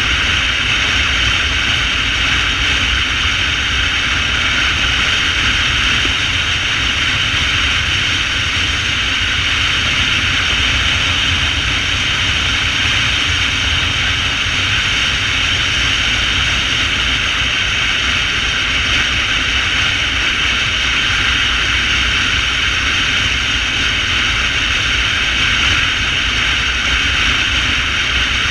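Motorcycle riding at speed: a steady rush of wind over an engine rumble, unchanging throughout.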